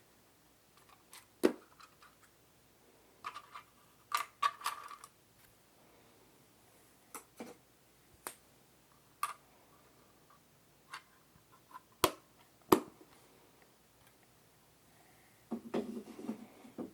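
Ear-cleaning ASMR sounds: tools scraping and tapping against the microphone, with scattered sharp clicks and short scratchy rustles, and a denser burst of scratching near the end.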